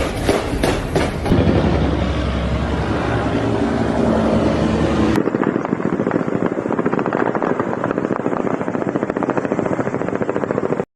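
Helicopter rotor noise with a few sharp cracks in the first second, then a fast, even rotor pulsing after an abrupt cut about five seconds in; the sound stops suddenly just before the end.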